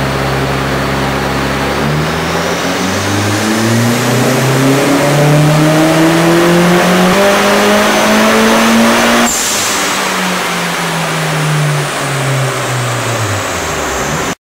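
Mitsubishi Lancer Evolution IV's turbocharged four-cylinder engine on a chassis dyno: it holds low revs for about two seconds, then makes a full-throttle pull in third gear with the pitch rising steadily for about seven seconds. About nine seconds in, the throttle shuts with a sudden sharp noise and the revs fall away as the rollers coast down.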